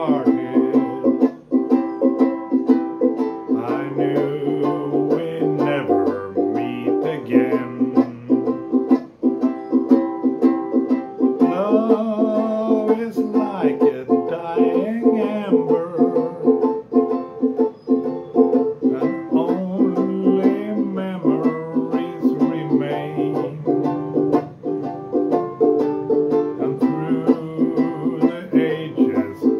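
Acoustic plucked-string music: a steady, fast picked rhythm over a moving bass line, with a melody line coming forward about halfway through.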